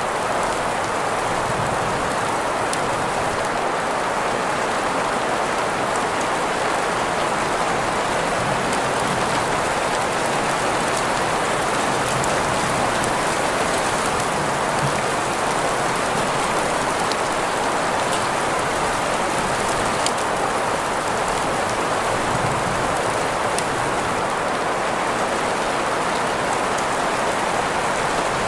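Steady rain sound blended with green noise: an even hiss centred in the middle range, with faint scattered ticks of drops.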